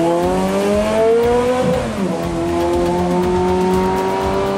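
Ferrari V8 engine revving hard as the car accelerates away, with an upshift about two seconds in that drops the pitch before it climbs again in the next gear. The sound fades a little as the car draws away.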